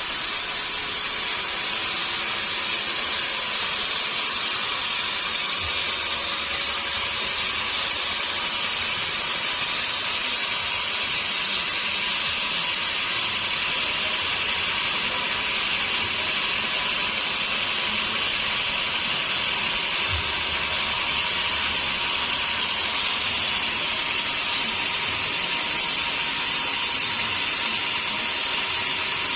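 A sawmill saw cutting steadily through a log of hardwood, giving an even, hissing noise.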